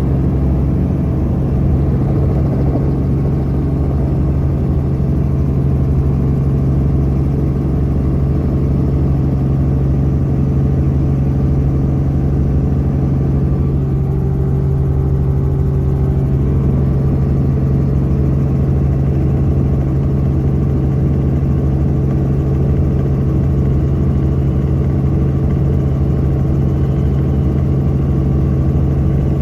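Helicopter in flight: a loud, steady drone of engine and rotors with a strong, unchanging low hum.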